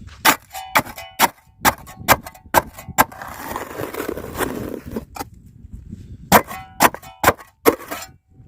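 Metal shovel blade striking hard, packed sandy ground over and over, about two clanging strikes a second. A stretch of scraping comes in the middle.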